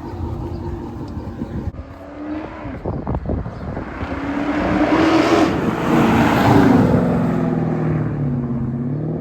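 Chrysler 300 SRT's 6.4-litre HEMI V8 running, then accelerating about halfway through, its note rising and swelling to its loudest around six to seven seconds before easing back.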